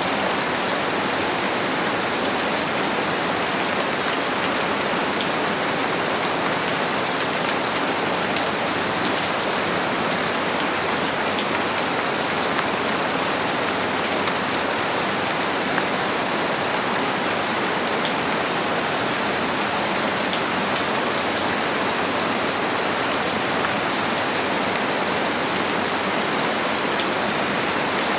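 Steady rain falling: an even, unbroken hiss with many small drop ticks and no thunder.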